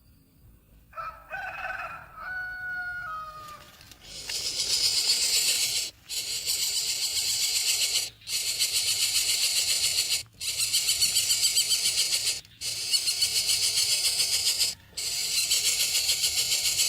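A bird call falling in steps, then a harsh, hissing rasp repeated in loud bouts about two seconds long, each bout separated by a brief break.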